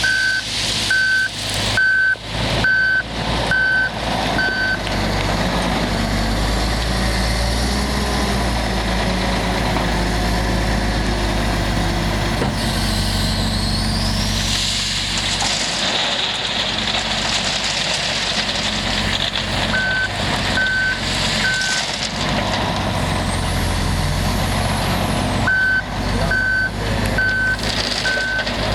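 Komatsu WA480-6 wheel loader's diesel engine working, with a reverse alarm beeping about once a second at the start, briefly again about twenty seconds in, and near the end.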